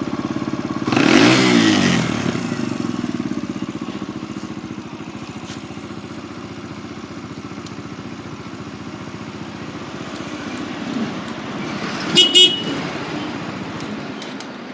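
Kawasaki KLX125's single-cylinder four-stroke engine idling, blipped once about a second in so the revs rise and fall back to idle. Near the end the horn gives two short beeps in quick succession.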